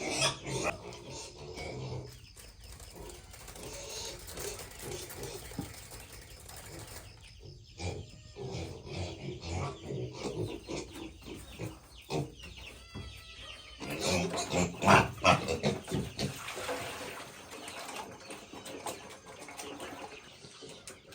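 Farmyard sounds: short knocks and clicks with a few bird chirps, and a louder stretch of clatter about fifteen seconds in.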